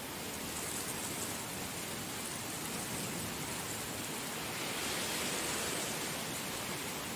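Heavy rain falling steadily, a dense even hiss that swells slightly about five seconds in.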